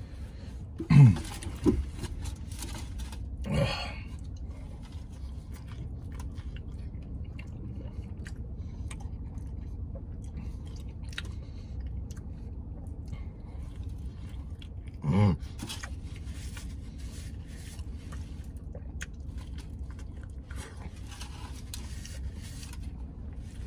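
A man chewing and biting into a burrito, with faint wet chewing clicks over a steady low hum. A few short voiced murmurs come in the first four seconds and once more about fifteen seconds in.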